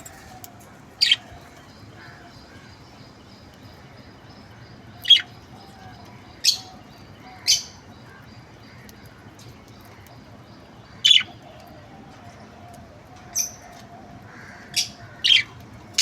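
Pet budgerigar giving a string of short, sharp chirps, about eight of them at irregular intervals a second or several apart, with faint soft warbling between.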